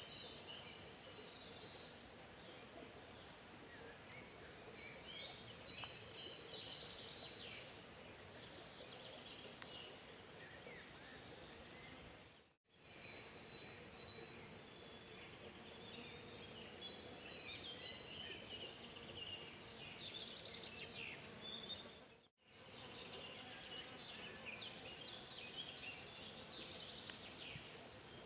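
Faint outdoor ambience of several small birds chirping and twittering over a low steady background hiss, briefly cut twice.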